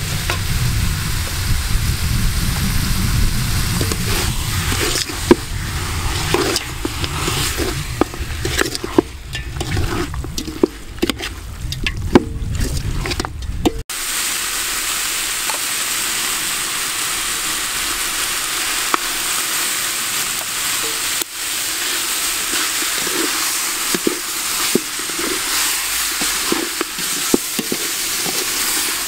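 Chicken pieces frying in a metal pot, stirred with a metal spoon that clinks and scrapes against the pot. A low rumble sits under the first half. About halfway through the sound cuts to a steady sizzle with lighter scraping.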